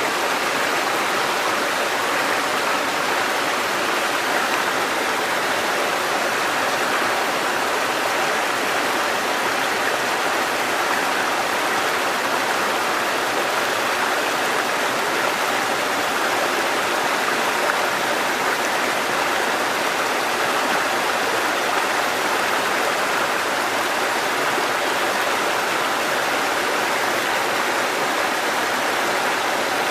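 Water cascading over rocks in a mountain stream: a steady, even rush of falling and flowing water.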